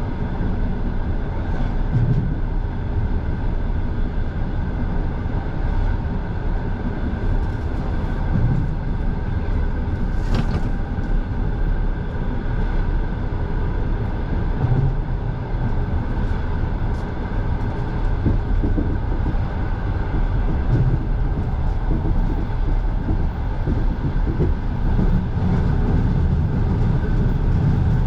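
Passenger train running, heard from inside the carriage: a steady rumble of wheels on the rails, with one brief sharp sound about ten seconds in.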